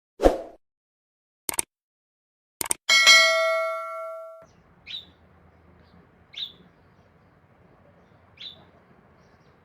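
Three sharp clicks, then a single bell ding that rings and fades over about a second and a half. After it come short, high bird chirps every second or two over faint background hiss.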